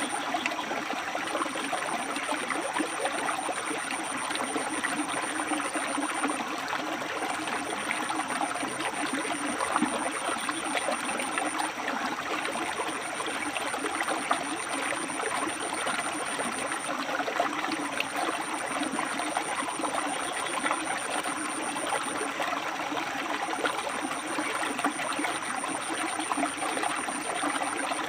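A river flowing and splashing over rocks, a steady rushing babble. A faint, high, thin whine comes and goes in stretches of about five seconds above the water.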